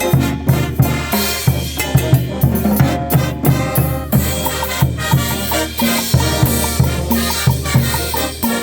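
Upbeat band music with a drum kit keeping a steady, driving beat under pitched instruments.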